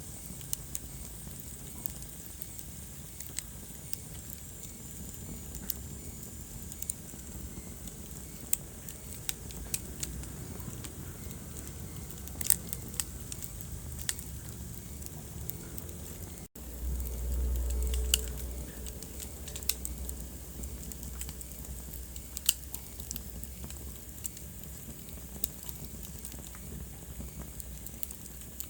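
Wood fire crackling in a fireplace: irregular sharp pops and snaps over a low steady rumble. The sound cuts out for an instant about midway, then the low rumble swells for a couple of seconds before settling.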